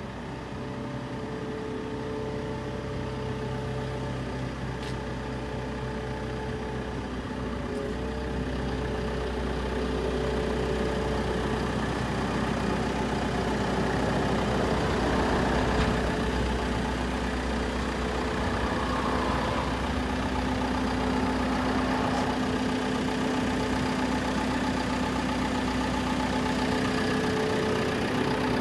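Diesel engine of a JCB 538-60 AgriXtra telehandler running steadily at idle, growing louder over roughly the first ten seconds and then holding even.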